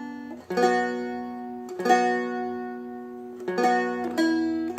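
Seagull Merlin M4, a four-string dulcimer-style instrument, played slowly with a B minor chord held: four strummed chords, each left to ring out and fade.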